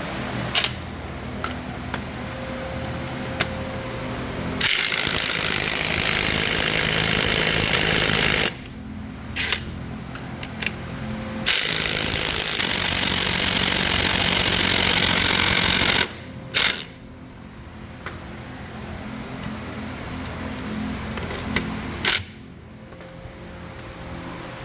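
A power tool runs in two bursts of about four seconds each, loud and even, with sharp clicks and knocks of hand tools between, over a steady low hum.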